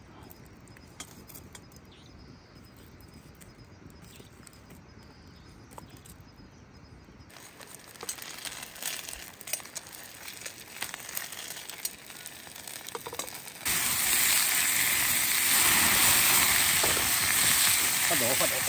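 Crackling and sizzling of wood-fire cooking, in three abrupt sections that each get louder: sparse faint crackles, then denser crackling, then a loud, dense sizzle from about 14 seconds in.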